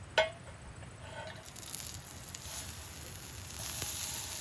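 A single metallic clank of a camp frying pan or utensil, then frying sizzle in the pan that slowly builds and grows louder near the end.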